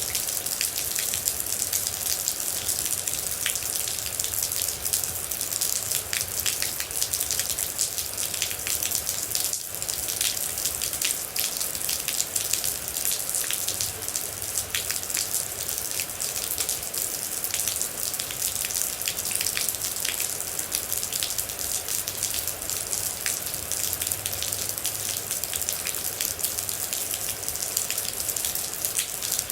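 Steady rain, with many separate water drops ticking sharply against a surface in a dense, irregular stream.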